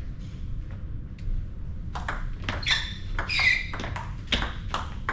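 Table tennis rally: a celluloid ball clicking back and forth off bats and the table in quick, uneven strikes. From about two seconds in, sharp high squeaks join the clicks, typical of players' shoes on the sports hall floor.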